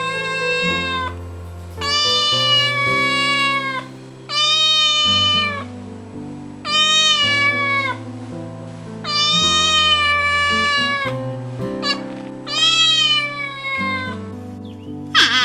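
A cat meowing repeatedly, about six long, drawn-out meows that drop in pitch at the end, over background music with steady low notes.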